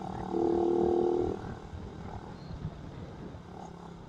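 A vehicle horn sounds once for about a second, a steady two-pitch tone, over the running motorcycle engine and wind rumble on the helmet-mounted microphone.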